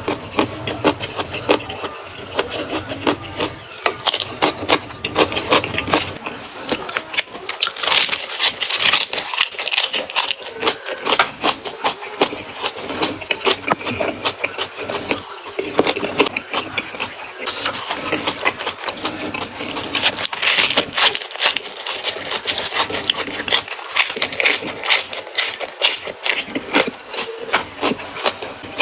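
Close-miked chewing and crunching of raw vegetables (lalapan): a rapid, uneven run of crisp crunches and mouth clicks.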